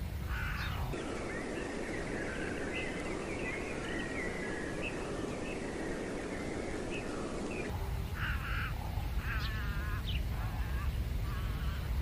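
Wild birds calling and chirping: short chirps and a few quick trills over a steady background of forest noise. The background changes abruptly about a second in and again near the end.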